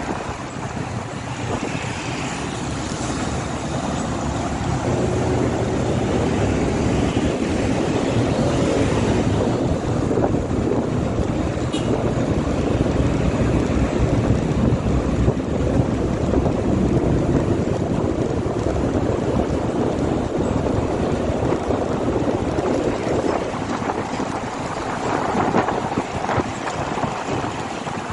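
Wind rushing over the microphone of a moving motorcycle, with engine and road noise beneath it, swelling somewhat louder through the middle.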